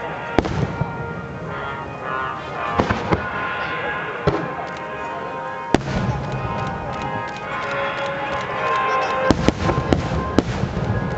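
Fireworks shells bursting in a string of sharp bangs at irregular intervals, with a quick cluster of bangs about nine to ten seconds in, over music playing.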